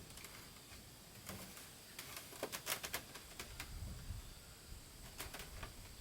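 Scattered light knocks and clicks, irregular: a quick cluster from about two to three and a half seconds in, then a couple more near the end.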